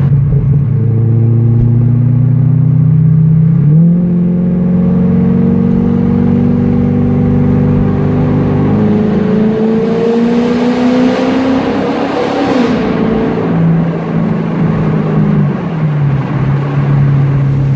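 C6 Corvette's 6.2-litre LS3 V8 running through long-tube headers, an X-pipe and straight pipes, mostly at a steady cruise. Its pitch jumps up about four seconds in, climbs gradually under throttle, then eases off and drops again near the end, with a rushing hiss at the peak.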